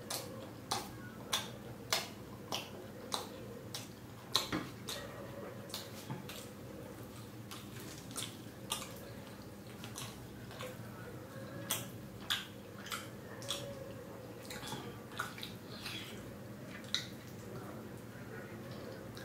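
Close-miked chewing of soft naan and curry-coated paneer, with wet lip-smacking clicks from the mouth. The clicks come about every half second for the first few seconds, then at irregular gaps.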